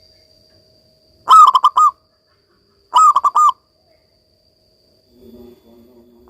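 Zebra dove (perkutut) singing: two loud cooing phrases, each a quick run of rolling notes, about a second and a half apart, followed near the end by a fainter, lower-pitched call.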